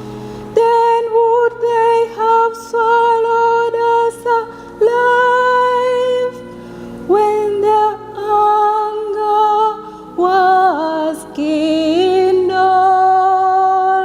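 A woman singing a slow melody in long held notes with vibrato, phrase by phrase, over a faint low accompaniment.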